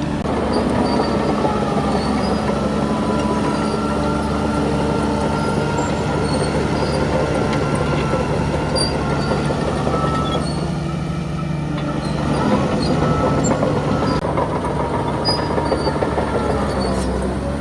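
Crawler bulldozer working, plausibly the Shantui DH17C3: its diesel engine runs steadily under the squealing of the steel tracks, which wavers in pitch, with scattered small clanks.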